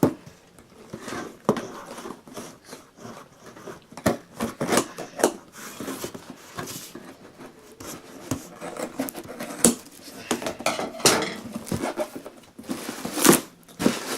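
Cardboard box and packaging being handled and opened by hand: irregular sharp clicks, taps and knocks with rustling in between.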